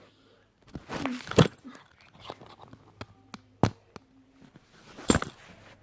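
Irregular rustling with several sharp knocks, the loudest about one and a half seconds in and about five seconds in.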